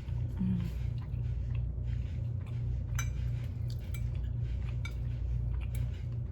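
A fork or spoon clinking lightly against a dish a few times while eating, the sharpest click about three seconds in with a brief ring, over a steady low hum.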